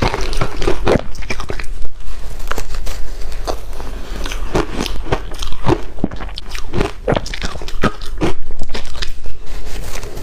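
Ice cubes being bitten and chewed close to the microphone: a rapid run of loud, sharp crunches and crackles.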